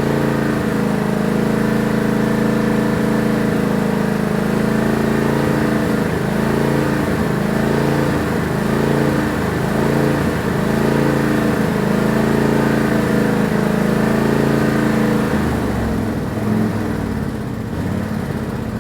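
Tractor engine running steadily at a fixed speed, then slowing down about three-quarters of the way through.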